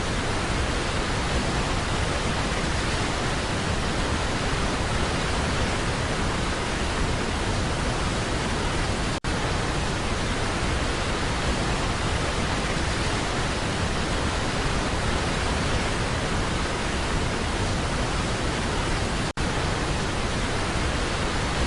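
Steady rushing roar of Niagara Falls' falling water, heard up close from a tour boat. It cuts out for an instant twice, about 9 and 19 seconds in.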